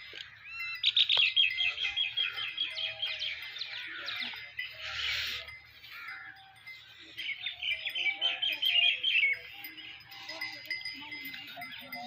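Small birds singing: a rapid trill of repeated high notes starting about a second in and lasting a couple of seconds, and a second trill about seven seconds in.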